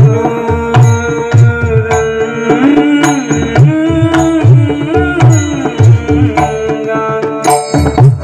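Marathi devotional bhajan music: a hand drum's deep strokes bend in pitch in a steady rhythm of about two a second, with sharp cymbal-like clicks and sustained melodic notes over them.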